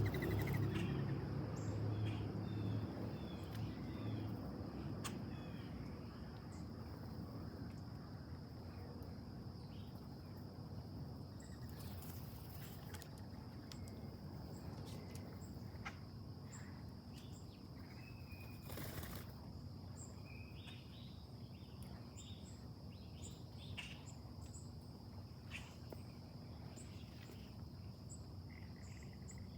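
Backyard ambience: scattered short bird chirps over a steady high-pitched insect drone, with a passing vehicle's rumble fading away over the first few seconds.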